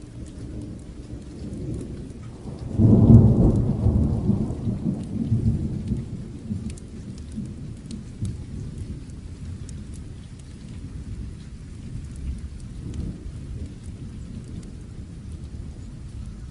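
Steady rain with a low peal of thunder about three seconds in, the loudest moment, rumbling and dying away over the next few seconds.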